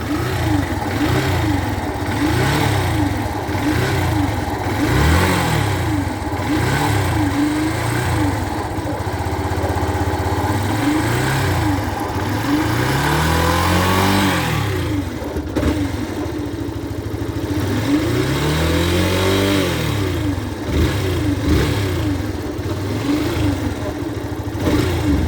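Yamaha FZ-S V2.0's single-cylinder engine being revved in repeated short throttle blips, with two longer, higher revs about halfway through and again a few seconds later. It carries the abnormal noise from inside the engine that the owner traces to the crankshaft.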